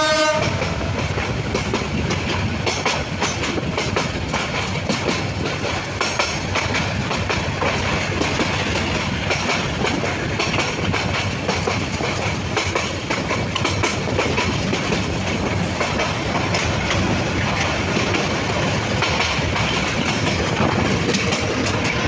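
Express passenger train running at speed, heard from a carriage door: a steady rumble of wheels on rail with irregular clacks over the rail joints. A train horn blast cuts off right at the start.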